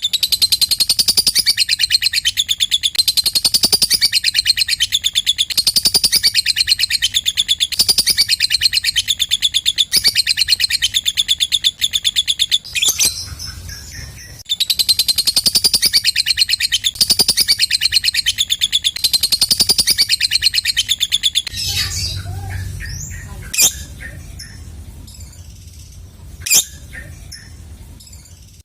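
Lovebird ngekek: a long, fast, high-pitched chattering trill that breaks off briefly about halfway, then resumes. Near the end it gives way to scattered chirps and two sharp, loud single calls.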